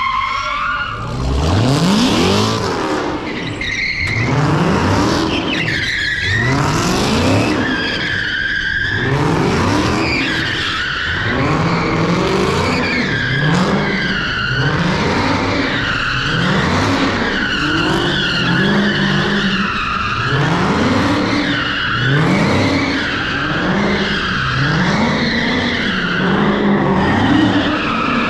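A car doing donuts: its engine revs up over and over, about every one and a half seconds, while the tyres squeal continuously.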